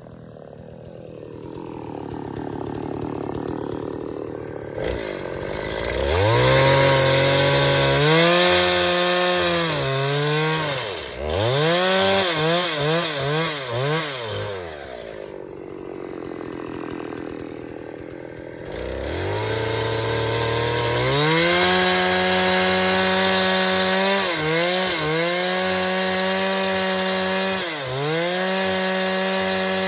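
Two-stroke chainsaw running quietly at low speed, then revved hard about five seconds in, its pitch wavering and dipping as it cuts wood. It drops back to low speed for a few seconds past the middle, then revs up and cuts again, with brief dips in pitch under load.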